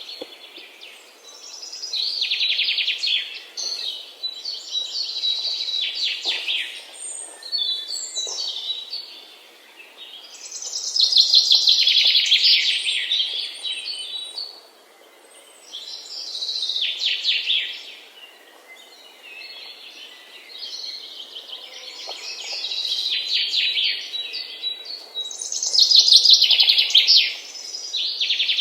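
Songbirds singing in a run of rapid, high-pitched trilled phrases, each one to three seconds long with short pauses between, over a faint steady background hiss.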